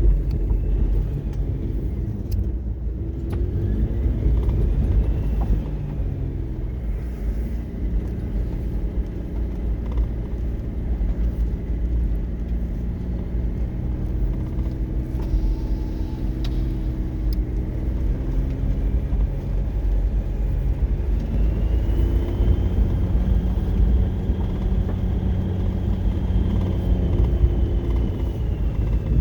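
Car driving, with a steady low rumble of engine and road noise. The engine note shifts pitch a few seconds in and again about two-thirds of the way through, as the car changes speed.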